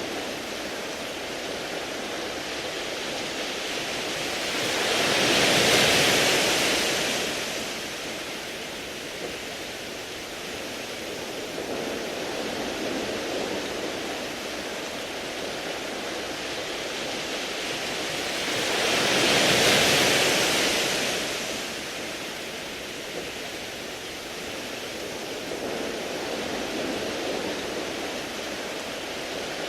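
Sea waves washing over a beach of smooth round pebbles, with a constant hiss of surf. Twice, about fourteen seconds apart, a bigger wave swells up and rushes through the stones with a louder, hissier wash, then falls back.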